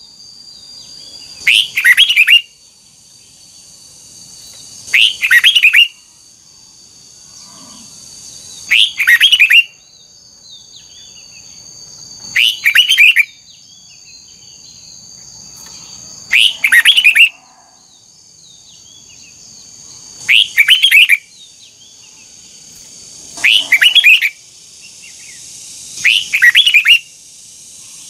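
Red-whiskered bulbul singing short, loud two-part phrases repeated about every three and a half seconds, about eight times, over a steady faint high-pitched hiss.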